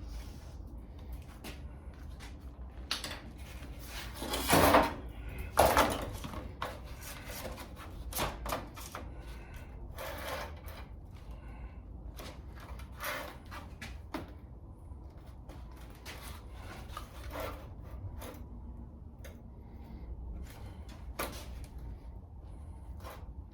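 Scattered knocks and clunks of objects being handled, the two loudest about four and a half and five and a half seconds in, over a steady low rumble.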